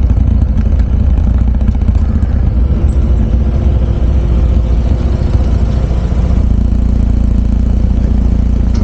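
Motorcycle engine running steadily while riding, under heavy low wind rumble on the microphone.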